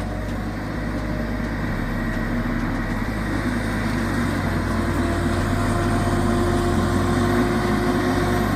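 Tracked feller buncher's diesel engine running steadily, its note and loudness creeping slowly upward.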